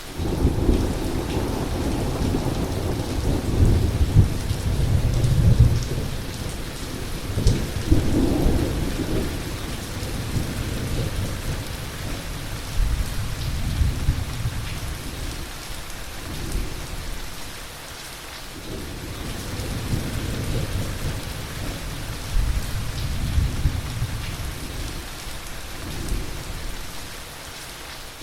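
Heavy rain hissing steadily under rolling thunder. The thunder rumbles in long low swells, loudest in the first eight seconds, fades to a lull around eighteen seconds, then rumbles up again.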